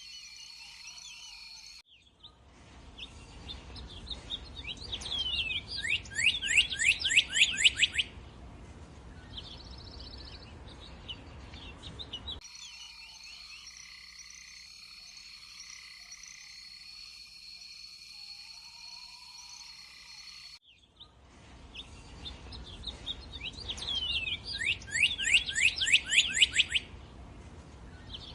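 Frogs and insects calling together under a steady high trill, cut abruptly into a bird singing a run of downward-sweeping whistled notes that grows louder and quicker, then stops. The two recordings alternate, and the bird's run plays twice.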